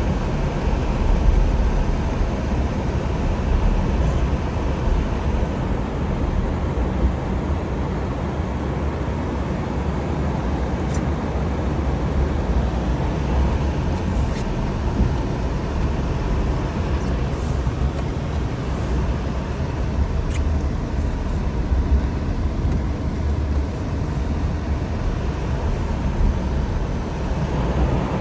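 A car driving along, with a steady low engine and road-noise rumble and a few faint ticks.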